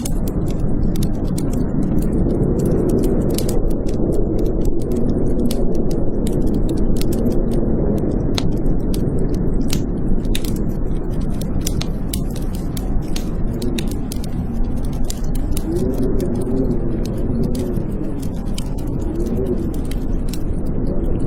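Blizzard wind howling, its pitch rising and falling in gusts, over a wood fire crackling with frequent sharp pops.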